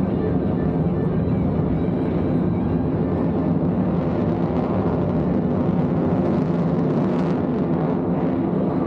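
F-35A Lightning II's Pratt & Whitney F135 jet engine, a steady low rumble that holds level throughout.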